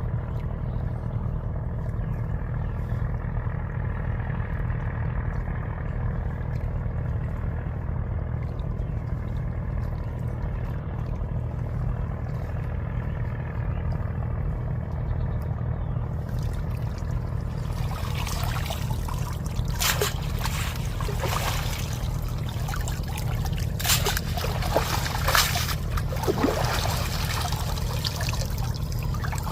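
Small boat engine running steadily at low revs. From about eighteen seconds in, water splashes and dribbles over it, with a few louder splashes.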